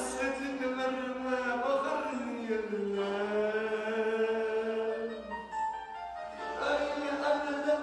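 A voice singing long held notes that slide between pitches, in phrases of a few seconds each.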